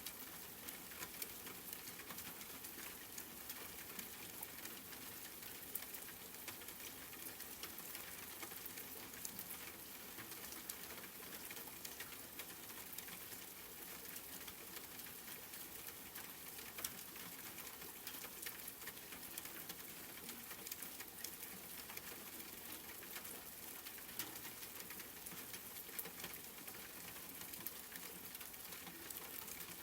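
Steady rain falling, with a dense pattering of fine drops.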